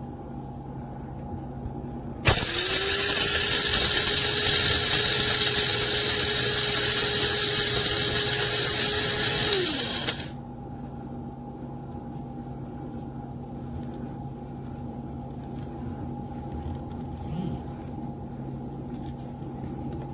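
DR MILLS DM-7441W electric blade grinder switched on about two seconds in. Its motor reaches speed at once and runs loud at a steady pitch for about seven and a half seconds, then winds down and stops.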